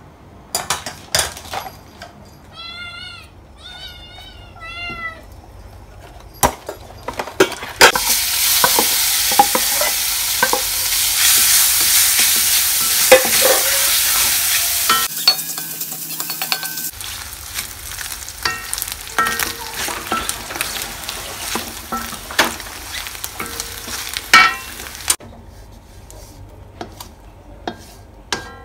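Pieces of ham and bread frying in hot oil in an aluminium wok. The sizzle is loud for several seconds, then settles lower while a wooden spatula stirs them and scrapes and taps the pan.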